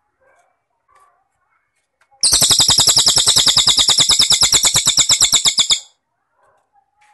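A masteran recording of cililin bird and cricket song: soft scattered chirps, then about two seconds in a loud, shrill, rapid trill of about ten even pulses a second. The trill runs for about three and a half seconds and stops abruptly.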